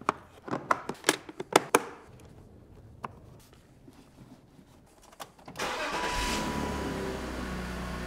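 A run of sharp plastic clicks as the cabin air filter housing covers are snapped shut. About five and a half seconds in, the BMW M54 B30 straight-six comes in suddenly, flares briefly, then runs steadily.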